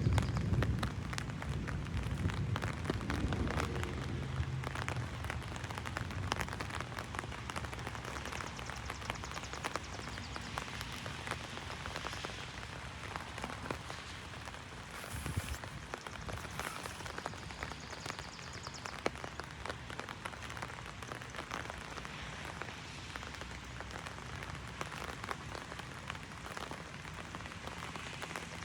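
Heavy rain drumming on an umbrella overhead, a dense steady patter of drops. A low rumble sits under it for the first few seconds, then fades.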